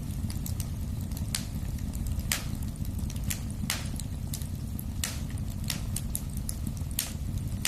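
Wood fire in a fireplace crackling, with irregular sharp pops, a few louder ones every second or so, over a steady low rumble of the flames.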